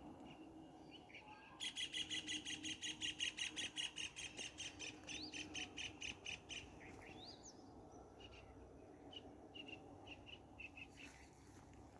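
Birds calling: a fast, evenly repeated run of high-pitched chirps, about seven a second, from about two seconds in until nearly seven seconds. After that come a few short rising notes and scattered single chirps.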